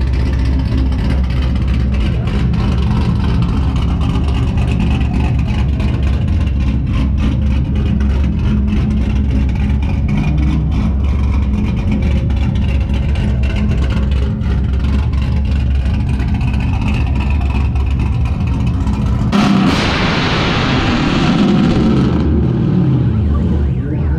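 Car engines running with a steady low rumble, then a sudden loud burst of noise about nineteen seconds in that lasts a few seconds.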